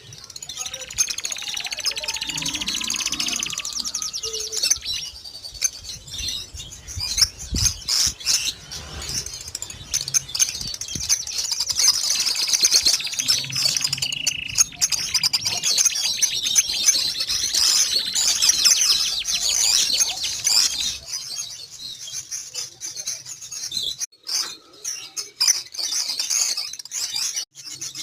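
Pet canary singing in long, rapid high-pitched trills, the song thinning out about three quarters of the way through. Sharp clicks sound throughout.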